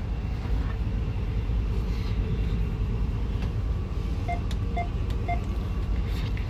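Diesel locomotive running under throttle, heard from inside the cab as a steady low rumble. Three short beeps, about half a second apart, sound a little past the middle.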